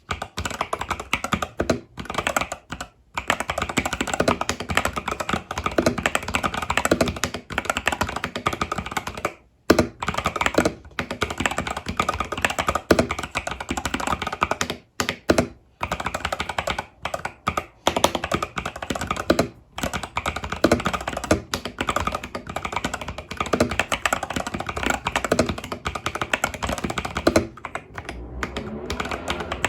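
Fast continuous typing on an Epomaker TH80 Pro mechanical keyboard with Epomaker Budgerigar tactile switches and stock keycaps: a dense run of key clacks, broken by a few brief pauses.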